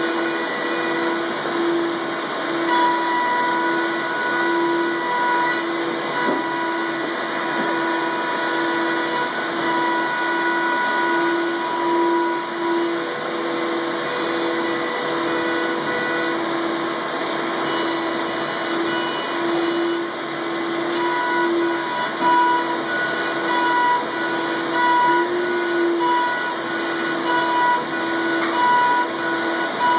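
Spindles of a double-head 4-axis CNC router running while machining wooden parts: a steady high-pitched spindle whine over a constant hiss, with fainter higher tones that come and go.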